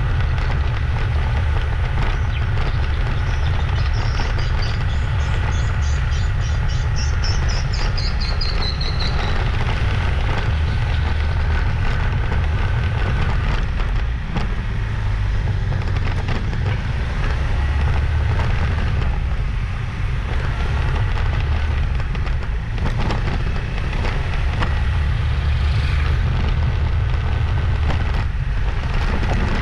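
Motorbike on the move: a steady low rumble of wind buffeting the microphone over the engine.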